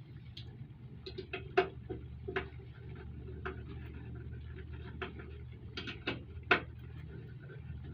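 Irregular light metallic clicks and clinks of hand tools and bolt hardware as a luggage rack is bolted onto a motorcycle sissy bar, two knocks louder than the rest, over a low steady hum.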